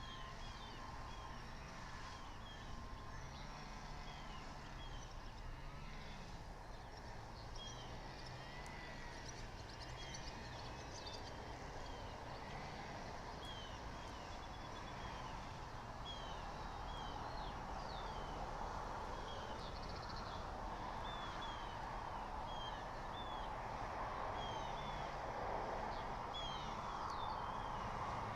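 Small birds chirping repeatedly in short high calls over a steady outdoor background noise, which swells somewhat in the second half.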